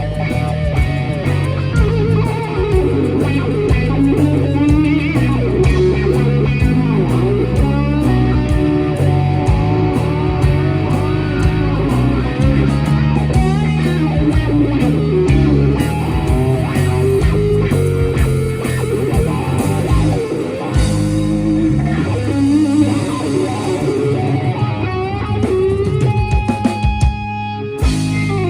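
Live blues-rock band playing an instrumental section: an electric guitar lead with bending notes over bass guitar and drums. Near the end the song closes on a held final chord.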